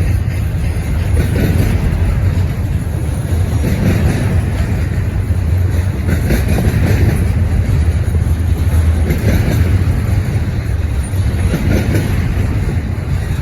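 Freight train cars of a long manifest rolling past at close range: a steady, loud rumble of wheels on rail, with a clattering surge every two to three seconds.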